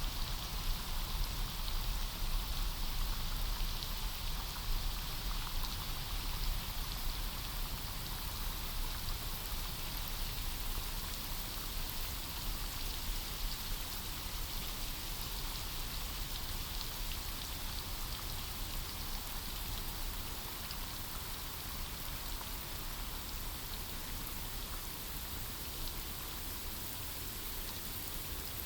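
Steady rain falling on forest foliage, an even patter of many drops.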